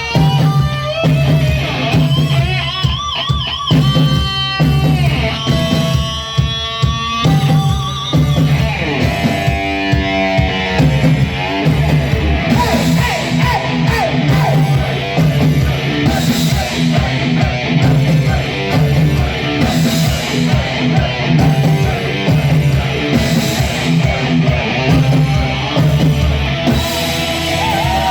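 Live rock band playing an instrumental heavy-metal passage: distorted electric guitar lead with wavering held notes and fast falling runs in the first several seconds, then the full band with drum kit and bass guitar driving on.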